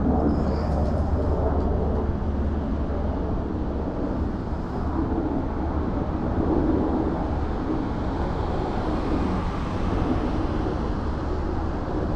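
US Army UH-60 Black Hawk helicopter flying over: a steady low drone of rotor and engines.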